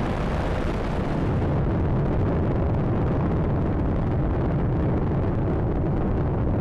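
Space Shuttle Atlantis's rocket engines at liftoff: a loud, steady, deep rumbling roar with no pauses.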